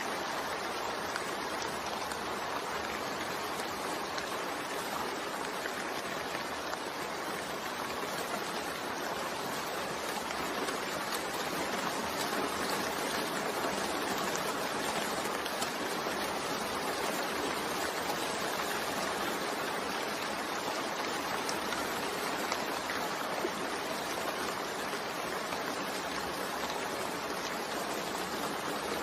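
Steady, unbroken rain mixed with white noise, an even hiss with faint drop ticks in it.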